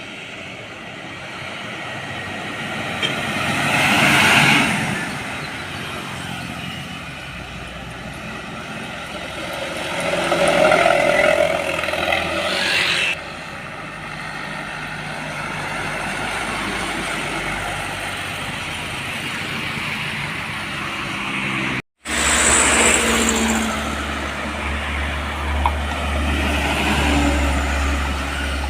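Heavy road traffic: vehicles, trucks among them, pass close by, swelling and fading about four seconds in and again around ten to thirteen seconds. After a break, a heavy diesel engine runs with a steady low rumble.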